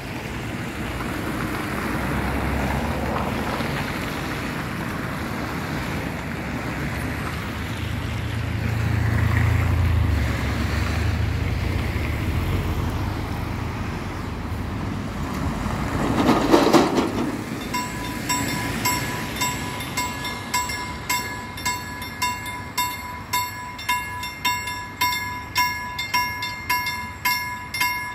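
Freight train hauled by two Sr2 electric locomotives rumbling past, with a louder burst about sixteen seconds in. From about eighteen seconds a level-crossing bell rings in even pulses, about one and a half a second.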